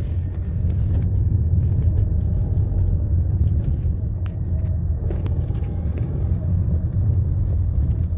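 Steady low rumble of a car driving along a road, engine and tyre noise heard from inside the cabin, with a few faint clicks.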